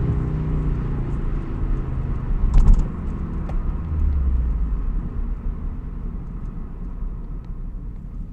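Toyota 86's FA20 flat-four boxer engine with unequal-length headers and an aftermarket exhaust, revs falling off as the car slows and settling into a low rumble that grows quieter. A sharp knock sounds about two and a half seconds in.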